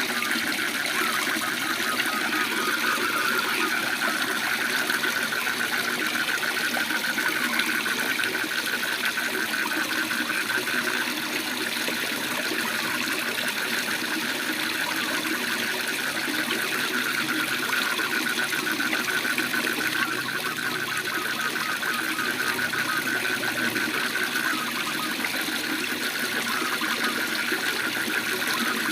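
Waterfall rushing steadily, with frogs calling in a continuous fast-pulsed trill over it.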